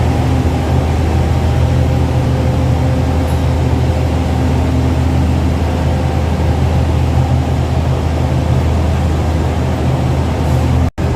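Steady low drone of a stationary diesel-hauled train idling at the platform, with a few steady humming tones over it. The sound cuts out for an instant near the end.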